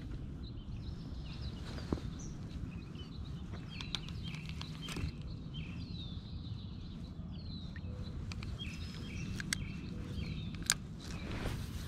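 Songbirds chirping and singing over a steady low rumble, with a few sharp clicks of the spinning rod and reel being handled.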